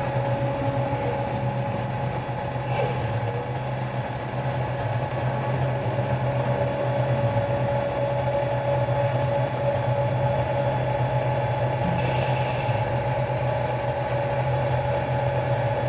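Radio-controlled Scania model truck running with a steady idling engine-like hum and a constant whine.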